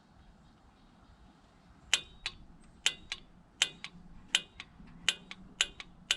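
Wrench ratchet clicking as the injector feed tube nut on a 5.9 Cummins is tightened toward its final 44 ft-lb torque: sharp clicks start about two seconds in and come in a steady rhythm, roughly one stroke every 0.7 seconds, often a loud click with a softer one just after.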